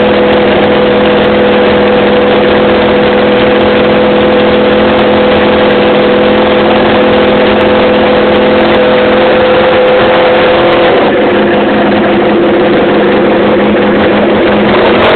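Honda RVF400's V4 engine running with no exhaust fitted: a loud, steady engine note that shifts slightly in pitch about eleven seconds in.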